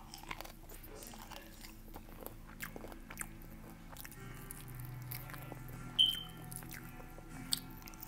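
A person biting and chewing crunchy food close to the microphone, a run of small crunches and mouth clicks. About six seconds in comes one sharp, louder click with a brief high ring.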